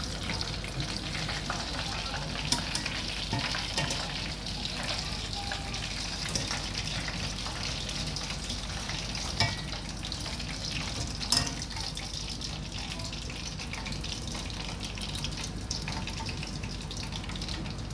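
Breaded chicken strips deep-frying in hot oil: a steady sizzle and crackle with scattered sharp pops and clicks, the loudest about two and a half, nine and eleven seconds in.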